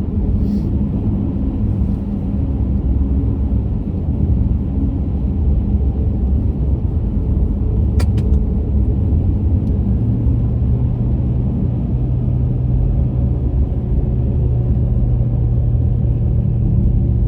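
Car driving at speed, heard from inside the cabin: steady low road and engine rumble with tyre noise. A single sharp click about eight seconds in, and a steadier low hum comes in about ten seconds in.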